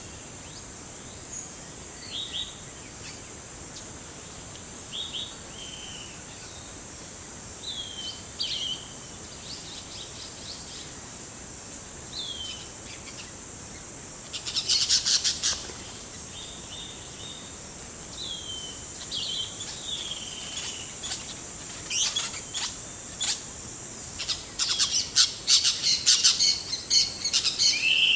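Forest birds calling over a steady high-pitched drone: a short falling call repeats every couple of seconds, a burst of rapid chirping comes about halfway through, and busier, louder chirping fills the last few seconds.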